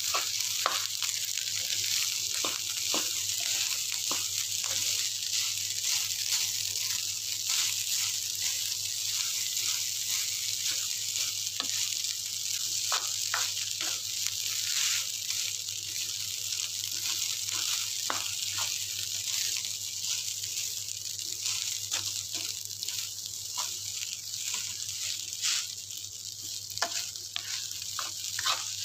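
Rice stir-frying in a wok: a steady sizzle, with the spatula scraping and knocking against the pan in frequent short clicks.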